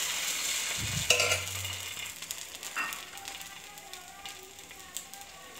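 Dosa batter sizzling on a hot plain (non-nonstick) tawa as a steel ladle finishes spreading it, with a low knock and a short metal clink about a second in and a lighter clink near three seconds. The sizzle fades steadily as the thin batter sets.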